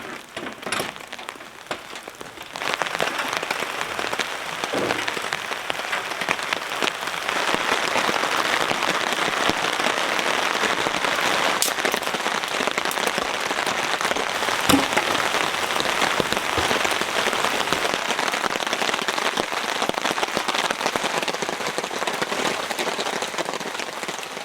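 Heavy rain falling steadily, a dense hiss of drops that swells about two and a half seconds in and fades out at the very end, with one sharper knock about fifteen seconds in.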